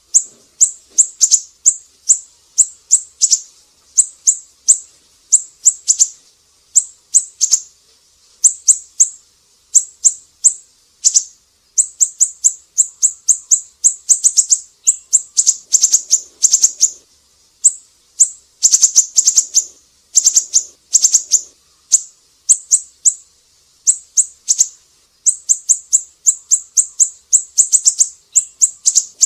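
Siri-siri bird singing continuously: very high, quick chirping notes delivered in short rapid runs of several notes each, with brief pauses between runs.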